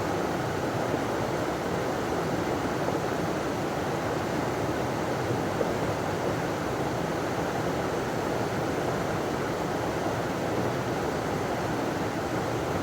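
A river running over a small waterfall: a steady rushing of water, even throughout.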